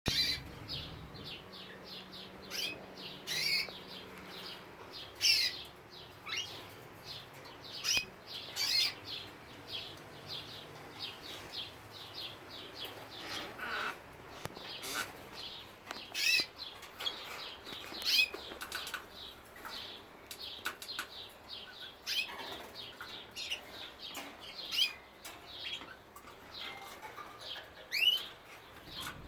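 Many domestic canaries fluttering and chirping: a busy, irregular run of short wing flaps mixed with brief high calls, a few of them rising chirps.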